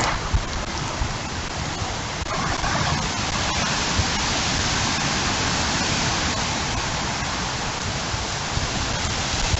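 Heavy rain pouring down steadily as an even hiss, with a few faint ticks of drops hitting nearby surfaces.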